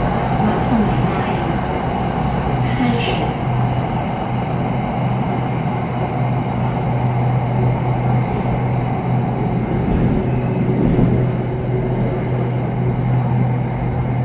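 Inside a Bangkok SRT Red Line electric commuter train (Hitachi AT100) on the move: steady running noise with a constant low hum.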